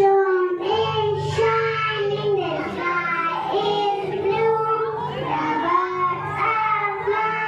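A child singing a rhyme, one voice carrying a melody in held notes, with a low steady sound underneath.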